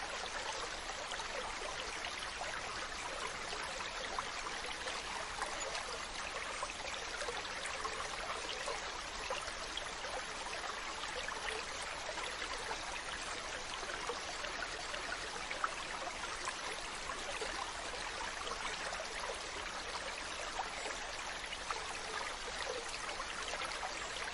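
Steady rushing water with fine crackling all through, even in level.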